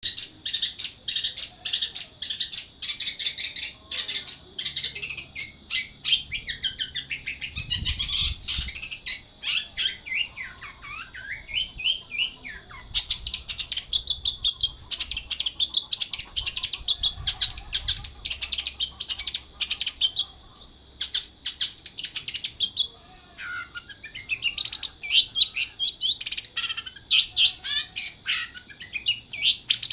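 Long-tailed shrike (cendet) singing in full voice: a rapid, varied stream of sharp chirps and slurred rising and falling notes with short pauses, over a steady high-pitched whine.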